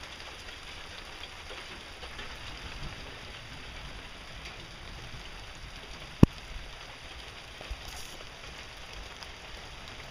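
Steady rain falling during a thunderstorm, with one sharp knock about six seconds in.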